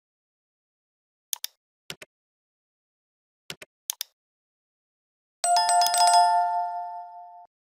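A few short, sharp clicks, mostly in quick pairs. Then a bright bell-like chime with several ringing tones sounds for about two seconds, fading before it cuts off.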